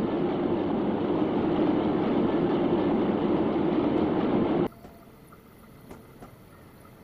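Steady rumble of a freight train rolling past close by, cutting off abruptly about four and a half seconds in and leaving only a faint hiss with scattered small clicks.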